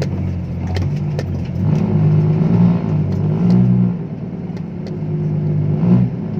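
Loaded six-wheel dump truck's diesel engine revving hard under load, pitch rising about a second and a half in and surging twice, with light rattling clicks.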